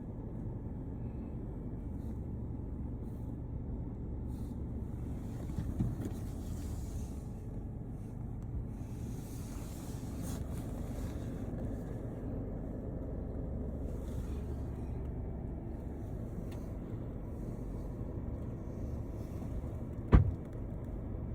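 Car engine running, a steady low rumble, with a single sharp thump near the end.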